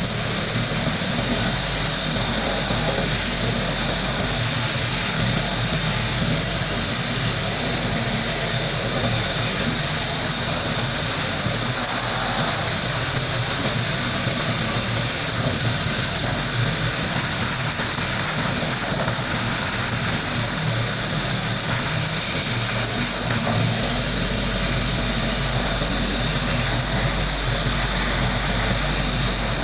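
Sandblasting gun blasting abrasive with compressed air: a steady, loud hiss without pause.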